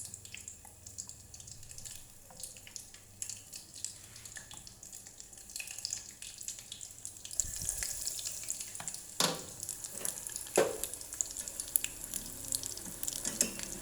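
Batter-coated shrimp deep-frying in oil, a steady sizzle with fine crackles that grows louder about halfway through. Two sharper knocks are heard a little later.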